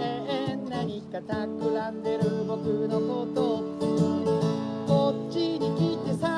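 Acoustic guitar strummed, playing a song with chords ringing between repeated strums.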